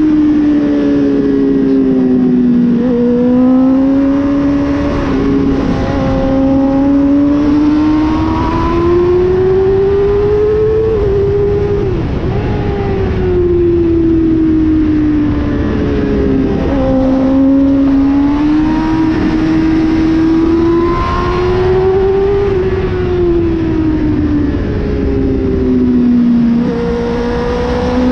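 Motorcycle engine heard from an onboard camera at track speed, its note climbing and dipping over several seconds as the bike accelerates and slows for corners, with a sharp drop about eleven seconds in. Wind rushes steadily underneath.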